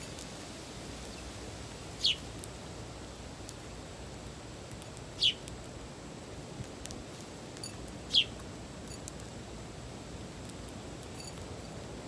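A backyard songbird giving three short, sharp chirps, each sliding downward in pitch, about three seconds apart.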